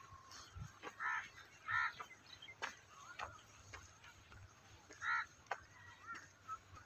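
Birds calling outdoors: three short calls, two close together about a second in and one more about five seconds in, with scattered light clicks between them.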